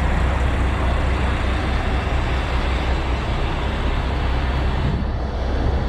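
A heavy-duty tow truck's diesel engine running steadily with a deep, even rumble, as it powers the winch during a heavy recovery.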